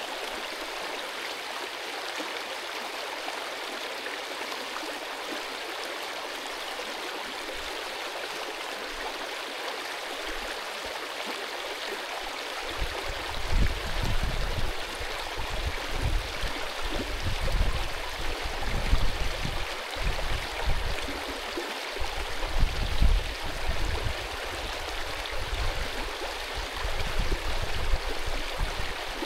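Mountain stream rushing and gurgling over rocks in a steady hiss. From about halfway, irregular low rumbles come and go beneath it.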